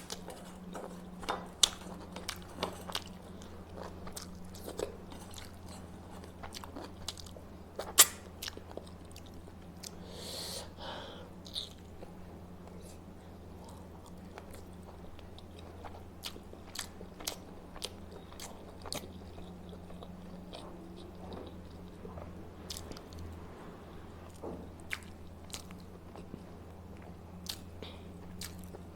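A person eating close to the microphone: chewing and biting, with many small sharp mouth clicks, one louder one about eight seconds in, and a brief hissy slurp or rustle a little later. A steady low hum runs underneath.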